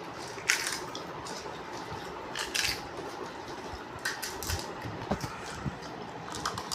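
Soft squishing and crackling of pani puri being handled and eaten, a few short bursts over a low steady background.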